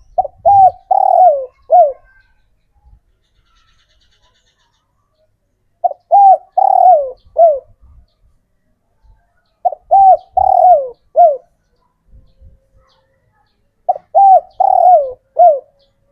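A male spotted dove (tekukur) cooing its song four times, about every four seconds; each phrase is a few short coos with a longer, falling coo among them.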